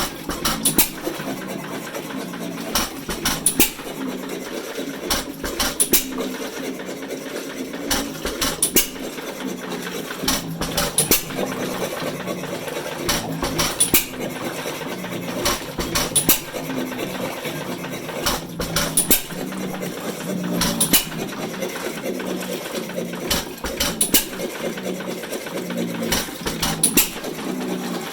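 Domestic 2 hp hit-and-miss engine driving a water pump: it fires a short cluster of sharp strokes every two to three seconds and coasts in between, with a steady mechanical running sound throughout.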